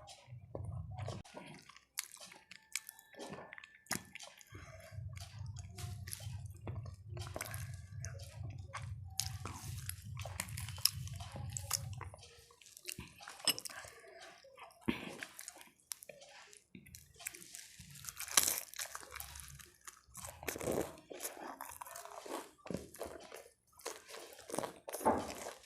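A person chewing and crunching food close to the microphone: many irregular crisp bites and mouth noises, with a steady low hum under them for several seconds near the start.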